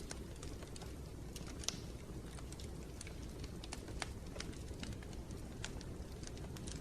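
Wood fire crackling in a fireplace: a steady low rumble of flames with irregular sharp pops and snaps, one louder pop a little under two seconds in.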